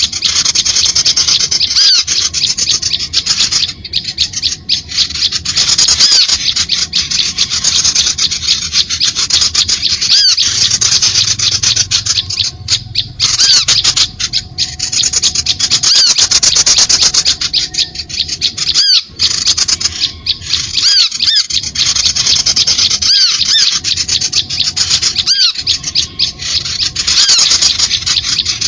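Bird-lure recording: loud, fast chattering bird calls, many rapid notes a second, with short breaks every few seconds.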